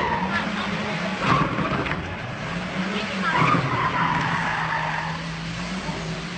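Car engine revving while its tyres squeal and skid. There are squeals about a second in and again from about three to four seconds in, and then the engine holds a steady note.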